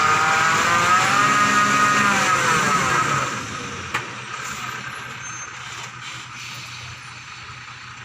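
Lorry engine revving up and easing off, loud for the first three seconds, then dropping to a quieter steady running. A single short sharp click comes about four seconds in.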